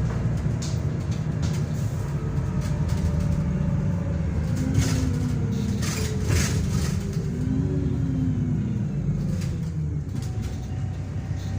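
Wright Pulsar Gemini 2 double-decker bus on a VDL DB300 chassis, driven hard: its diesel engine runs with a heavy low rumble, the note rising and falling twice around the middle, over a slowly falling whine and some rattling.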